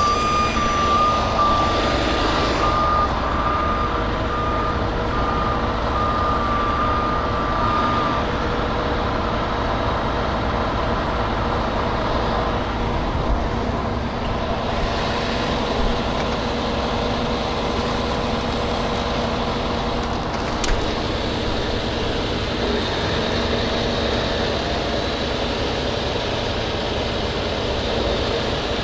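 A truck's reversing alarm beeping steadily for about the first eight seconds, then stopping, over the steady running of a truck engine.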